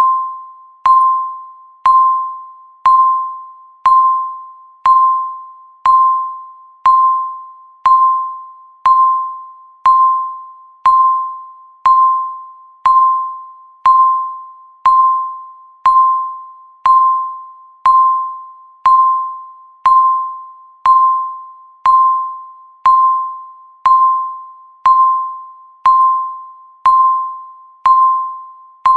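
Countdown timer's ticking sound effect: a short pitched tick, like a small ding, repeating steadily once a second, each one sharp at the start and dying away quickly.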